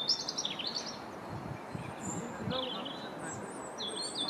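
Class 165 diesel multiple unit pulling slowly into a platform: a steady low rumble, with short high squeals and chirps over it near the start, midway and near the end.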